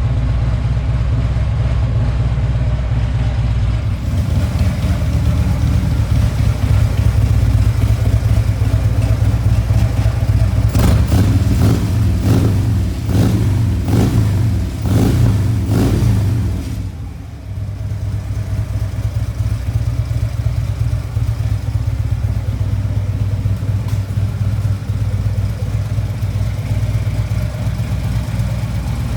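Harley-Davidson motorcycle V-twin engine running on its first cold start after salvage, blipped several times in quick succession in the middle, then settling back to a steady idle.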